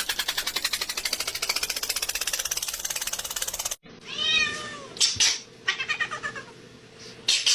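A cat meowing several times, each call rising and falling in pitch. Before that comes a rapid, even pulsing sound lasting almost four seconds, which cuts off suddenly.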